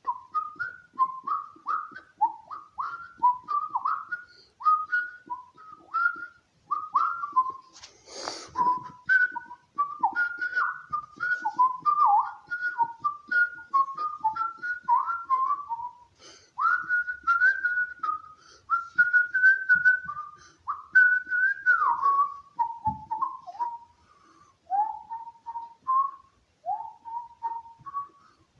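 A man whistling an improvised tune by mouth: a quick run of short, sliding notes, turning to longer held notes a bit past halfway. A short puff of breath noise cuts in about eight seconds in.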